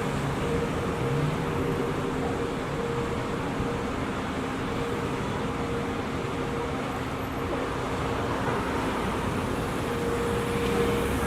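Steady vehicle and road-traffic noise, with a steady low engine-like hum under it.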